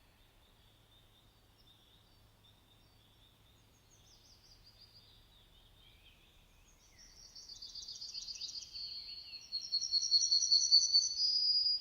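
Songbird singing: faint falling notes about four seconds in, building into rapid high trills from about seven seconds that are loudest near the end. A faint, steady high note lies underneath.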